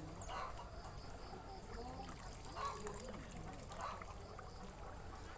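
Water trickling and splashing, with faint voices in the background.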